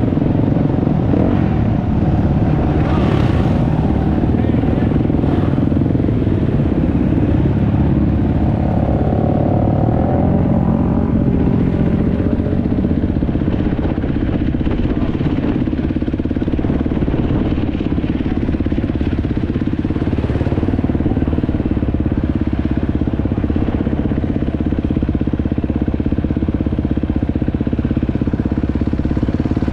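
Enduro motorcycle engine running at a fairly steady pitch, recorded onboard by a camera mounted on the bike.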